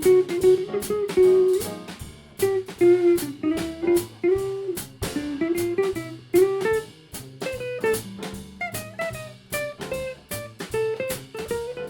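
A small jazz band playing live, with guitar to the fore over drums and bass; the melody line moves in sustained, bending notes, with steady drum and cymbal hits throughout.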